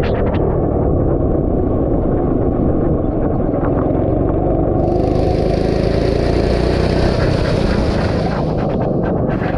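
Go-kart engine running steadily, heard onboard. A high hiss comes in about five seconds in and stops shortly before the end.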